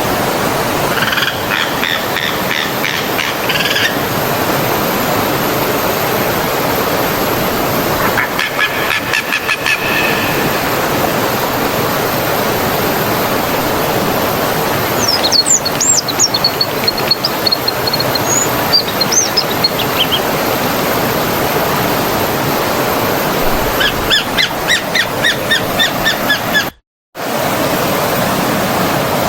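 Steady rush of running stream water, with small birds breaking in four times with bursts of quick repeated chirps. Near the end, all sound drops out for a moment.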